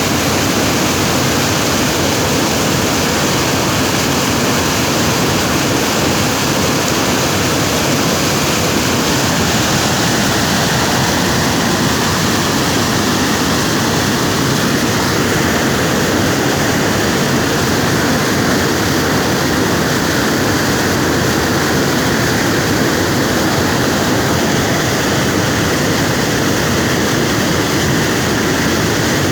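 Water rushing at a dam, a loud, steady, unbroken rush of falling water.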